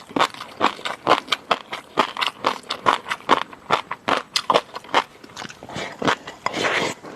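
Close-miked eating sounds: rapid crunchy, crackly chewing clicks, about three to four a second, with a longer rustling stretch near the end.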